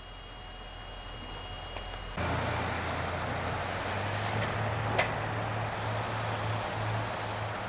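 Railway train at a station: a steady low locomotive hum under a broad rumble that starts abruptly about two seconds in, with one sharp click near the middle. Before it, only faint steady tones.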